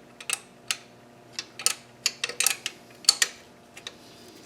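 Irregular sharp metallic clicks and clinks of hand tools and bolts being handled, some in quick little clusters, over a faint steady hum.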